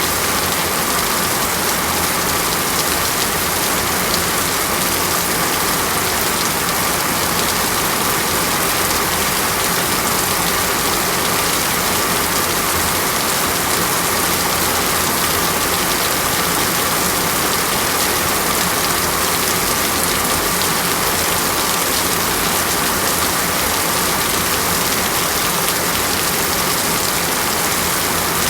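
Steady rain falling in a tropical rainforest: an even, unbroken hiss of rain on foliage with no thunder.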